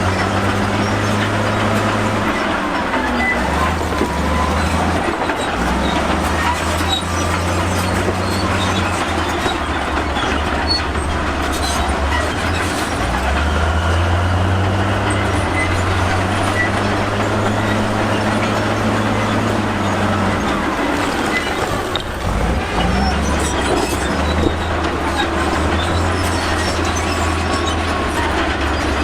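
Crawler bulldozer's diesel engine working under load, its note dropping and picking up again several times, over the steady clanking and squeaking of its steel tracks.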